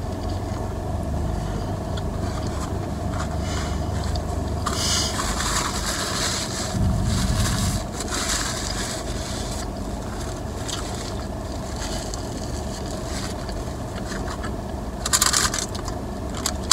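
Close mouth sounds of a person biting into and chewing a Culver's ButterBurger Double, in noisy wet stretches about five to eight seconds in and again near the end. A steady low hum from the car runs underneath.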